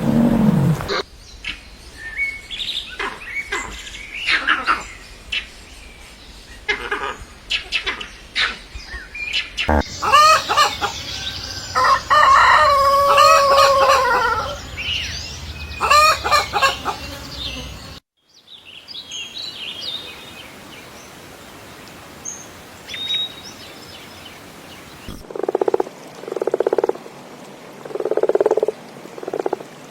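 A run of separate animal recordings. First come short clucks and chirps from chickens. A rooster crows in a long, pitched call about halfway through. Faint bird chirps follow, and near the end a frog croaks in evenly spaced calls about once a second.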